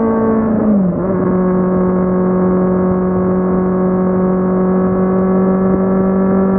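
Kawasaki Z750's inline-four engine running under way. Its note drops quickly in pitch under a second in, then holds steady at the lower pitch.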